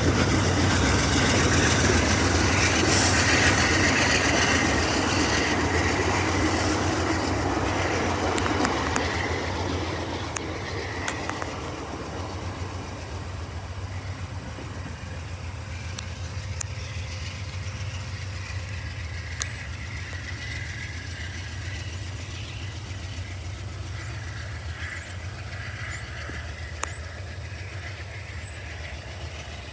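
VIA Rail passenger train rolling by on the rails, its noise fading over the first ten seconds or so and then leveling off, with scattered sharp clicks from the wheels on the track.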